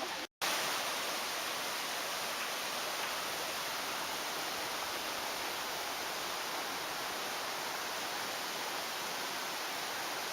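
Mountain stream water rushing steadily over rocks, an even hiss with no rhythm. It cuts out for a split second just after the start, then carries on unchanged.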